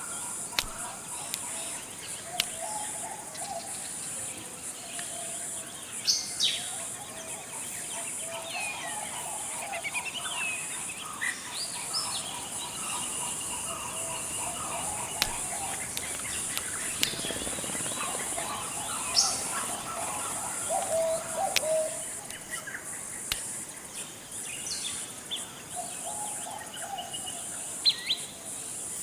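Forest birds calling and chirping, many short calls and quick rising and falling notes from several birds, over a steady high-pitched hiss.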